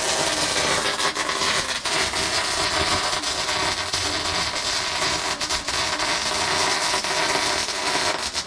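Welding arc crackling and sizzling steadily as a continuous bead is run, with a welder turned up to a higher setting for more heat.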